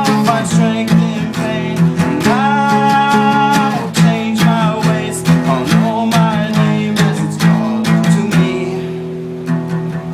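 Folk-rock song with an acoustic guitar strummed in a steady rhythm and a voice singing long held notes, one of them about two seconds in. The strumming softens briefly near the end.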